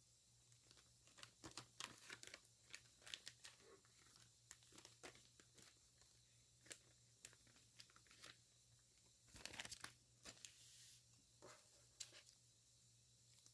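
Faint tearing and crinkling of a mail envelope's paper and plastic packaging being opened by hand: irregular crackles and rustles, with a denser stretch of rustling about nine to ten seconds in.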